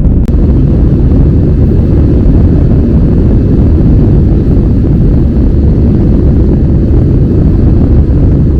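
Loud, steady low rumble of aircraft engines, with a single brief click just after the start.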